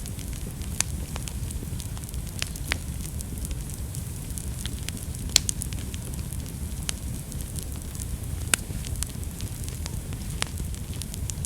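Wood fire burning in a fireplace: a steady low rumble of flames with irregular sharp crackles and pops, two of them louder about five and eight and a half seconds in.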